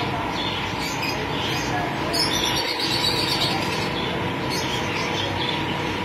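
Birds chirping and calling over steady background noise, with one brighter, higher call lasting about a second, starting about two seconds in.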